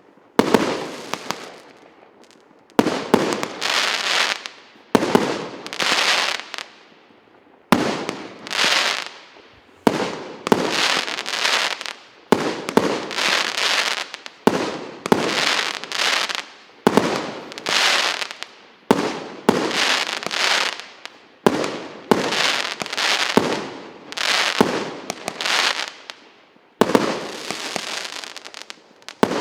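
Russian Pyrotechnics PC 8700 fireworks battery firing shot after shot, about one a second. Each is a sharp bang followed by a fading crackling hiss.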